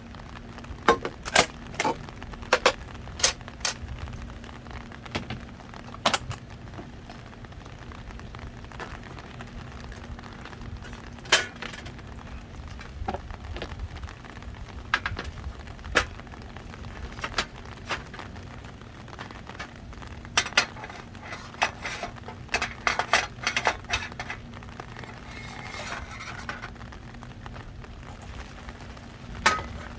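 Camp cookware and utensils clinking and knocking: a series of sharp, separate clicks and taps, more of them near the end, while ramen is being prepared. Behind them is steady heavy rain and a faint steady hum.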